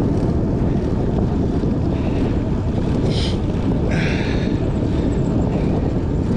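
Steady wind rush on the microphone of a camera riding along on a moving bicycle. Two short, higher-pitched sounds come through about three and four seconds in.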